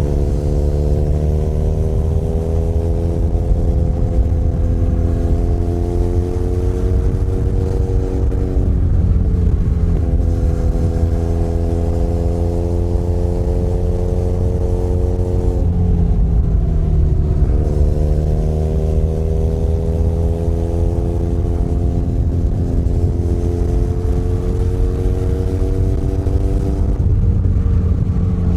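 Benelli Leoncino 500 Trail's parallel-twin engine running on the road, its pitch climbing slowly under throttle and dropping back three times, with a low rumble throughout.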